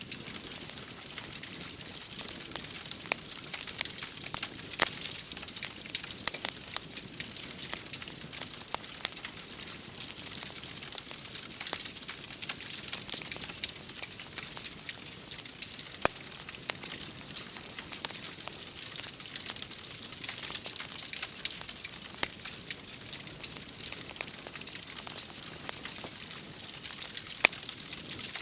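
Wood fire crackling with frequent irregular pops and snaps, over a steady rain-like hiss.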